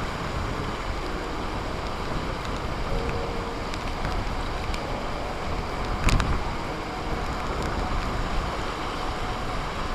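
Steady rushing of floodwater pouring through a lake spillway, with wind buffeting the microphone. A single brief knock about six seconds in.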